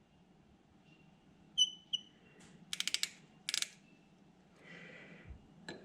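Faint handling of a small measuring tool on a freshly turned steel bar: two short high chirps, then a quick run of about five clicks and a brief scrape.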